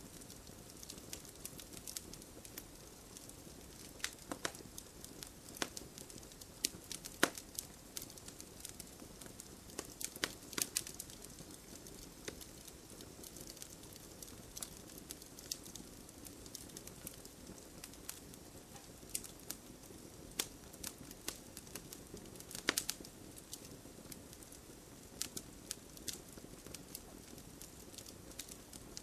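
Wood campfire burning with a steady soft hiss and irregular crackles and pops, denser in a few clusters.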